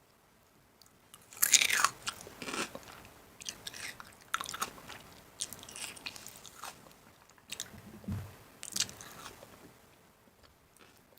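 Crisp food crunching in a run of irregular crunches, loudest about a second and a half in and again near the end, with a short dull thud shortly before the last loud crunch.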